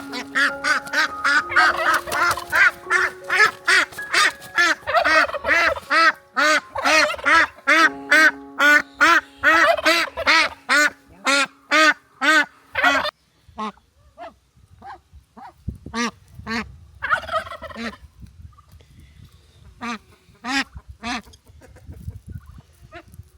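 Poultry calling over and over: a dense run of short, pitched calls for about thirteen seconds, then only scattered calls.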